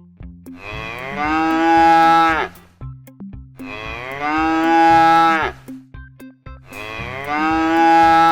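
A cow mooing three times, each moo a long drawn-out call of about two seconds.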